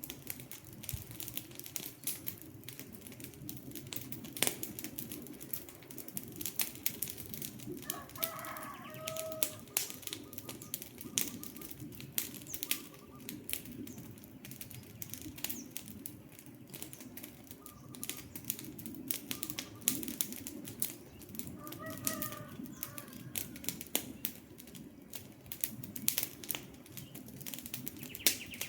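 Wood campfire crackling steadily with frequent sharp pops. A short bird call is heard twice, about a third of the way in and again near three quarters.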